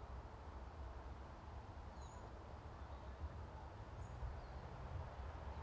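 Quiet outdoor ambience: a low steady rumble with a faint hiss, and a small bird giving two brief high chirps, about two and four seconds in.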